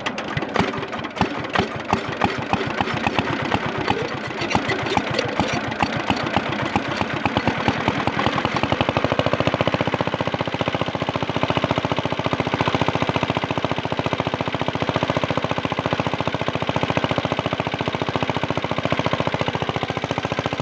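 Kirloskar diesel water-pump engine firing up: uneven knocking beats for the first several seconds, then settling into a fast, even, steady running beat about nine seconds in.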